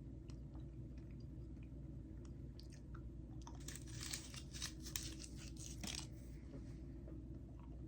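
Close-up mouth sounds of someone chewing a piece of gum, with a run of crackly clicks and snaps in the middle, about three and a half to six seconds in.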